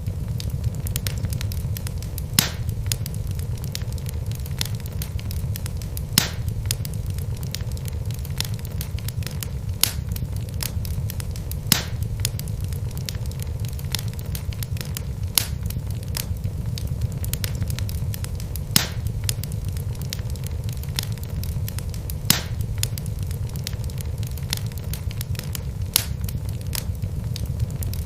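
Wood logs burning in a fireplace: a steady low rumble of flame with constant small crackles and a sharp, louder pop every few seconds.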